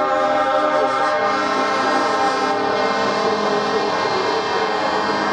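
Several truck air horns sounding together in a sustained, steady chord.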